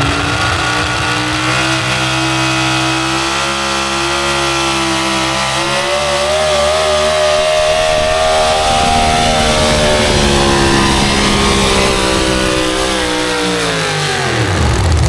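Competition pulling truck's engine at full throttle dragging the weight sled down the track, its pitch climbing midway through the run and falling away near the end.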